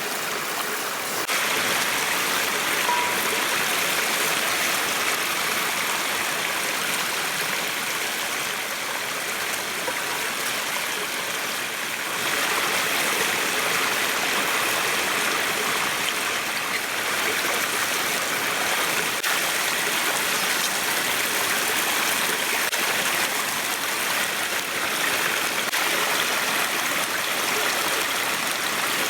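Steady rush of running water, like a stream, with no pauses; it steps up in level about a second in and again about twelve seconds in.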